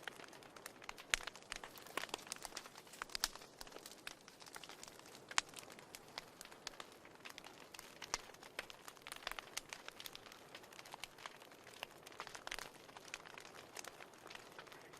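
Wood fire burning in a fireplace: a faint steady hiss with frequent irregular crackles and sharp pops.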